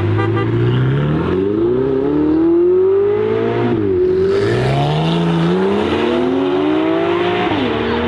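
Sports car engine accelerating hard, its pitch climbing steadily through the gears and dropping sharply at an upshift about four seconds in and again near the end.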